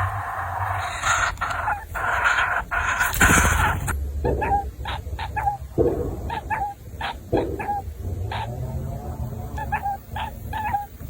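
Baby bird calling: short, sharp chirps in quick little runs, the begging calls of a young bird waiting to be fed. They start about four seconds in, after a stretch of loud rushing noise.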